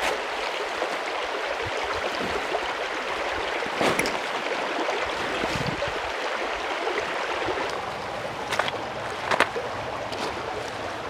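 Mountain stream rushing steadily, with a few short sharp clicks or knocks on top, one about four seconds in and two more near the end.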